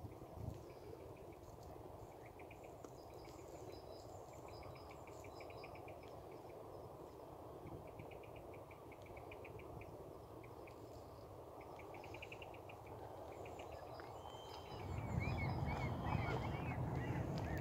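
Small birds trilling and chirping in short repeated bursts over steady outdoor background noise. About fifteen seconds in, a louder low rumble comes in.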